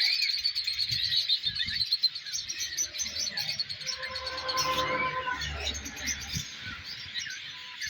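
Birds chirping: a dense run of many short high calls, with a few rising whistles among them.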